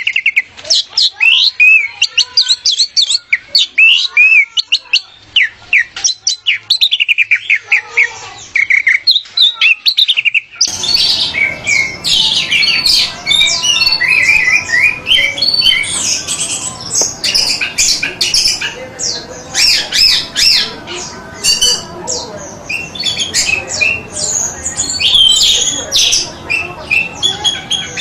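Orange-headed thrush (anis merah) singing a fast, varied song of quick high notes. About eleven seconds in, it changes abruptly to another recording of busier song with more background hiss.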